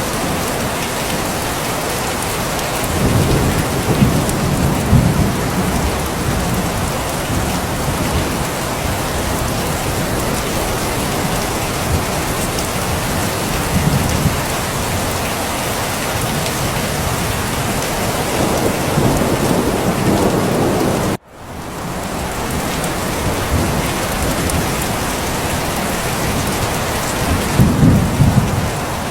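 Steady heavy rain with low rumbles of thunder that swell up several times. About two-thirds of the way through, the sound cuts out for an instant and then fades back in.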